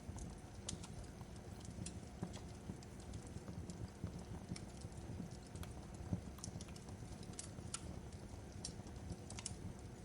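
Fireplace fire crackling, with irregular small pops and snaps over a low steady rumble of flame.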